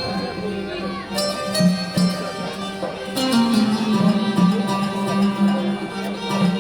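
Maalouf ensemble playing an instrumental passage of Libyan Andalusian music: plucked and bowed strings carry a melody over regular percussion strokes.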